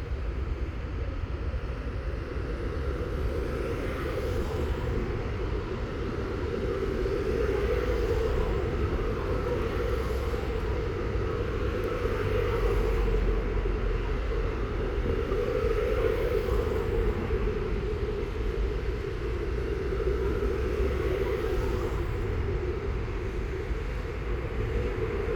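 Steady low rumble of outdoor background noise, with no clear separate events.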